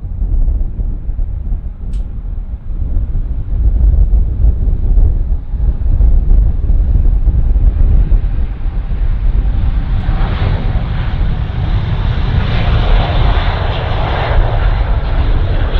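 Jet airliner's engines passing close, a loud deep rumble that starts suddenly, with a rougher hiss building over it from about ten seconds in.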